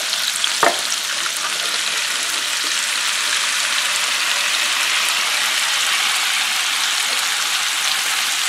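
Seasoned onions and mushrooms sizzling in bacon grease on the hot griddle plate of a Ninja Foodi Smart XL Pro indoor grill, a steady frying hiss as the mushrooms go onto the plate. Two sharp clicks of metal tongs against a steel bowl come right at the start.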